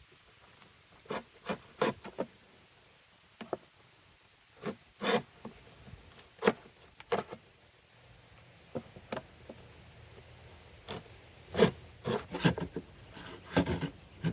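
Wood and hand tools being handled on a workbench: scattered short knocks and scrapes, coming more often near the end.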